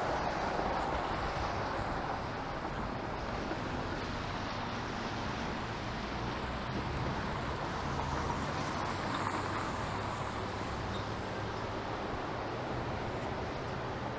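City street traffic: cars passing with a steady hiss of tyres on wet pavement over a low engine hum.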